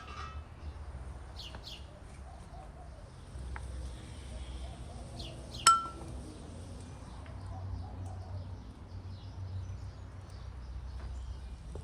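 Small birds chirping now and then, with one sharp clink of metal or glass about halfway through that rings briefly.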